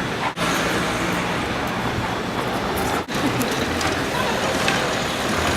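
Steady city traffic noise, a low rumble of passing vehicles. It cuts out for an instant twice, about a third of a second in and about three seconds in.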